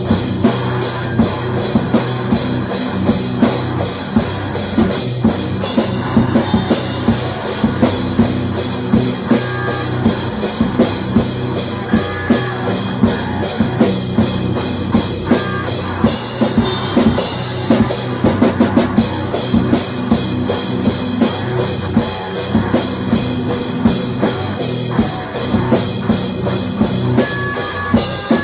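Rock music led by a drum kit playing a steady beat, with bass drum and cymbals.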